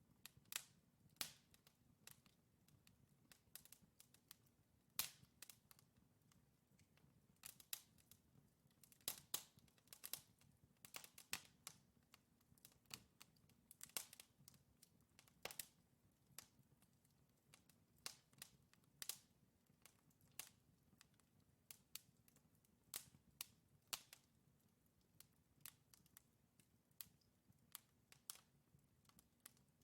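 Wood fire crackling: burning logs giving off frequent sharp, irregular pops and snaps over a faint low rumble.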